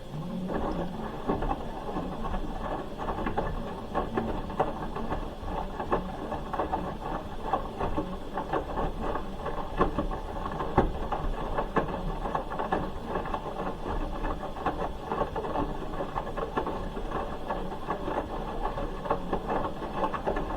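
Hoover H-wash 300 Plus washing machine running mid-cycle: a motor hum with water and laundry sloshing and many small clicks. It starts abruptly just after the outset.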